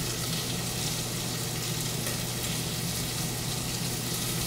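Shallots sizzling steadily in hot fat in a saucepan as they start to sweat, over a steady low hum.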